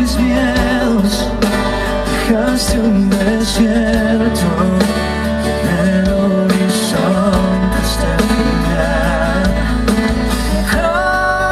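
Live band music from a romantic ballad, with a steady bass underneath and a melody line that wavers in pitch above it.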